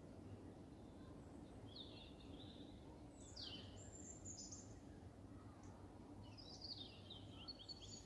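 Faint chirps and short calls of small birds, coming in scattered clusters, over a faint steady low background hum.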